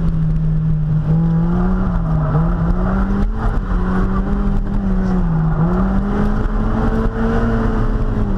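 1.8-litre Mazda Miata four-cylinder engine pulling hard under throttle while driven, its pitch wandering up and down with two brief dips where the revs drop and climb again.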